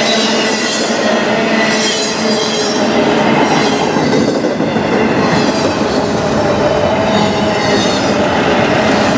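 Autorack freight cars rolling past close by, steel wheels running on the rails with a steady clatter, and several steady high tones of wheel squeal over it.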